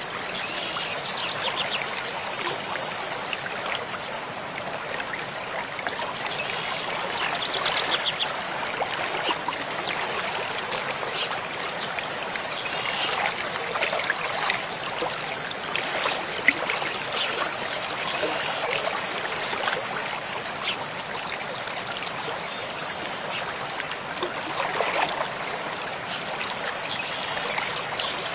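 Mountain stream flowing, a steady rush of water with small splashes and trickling throughout.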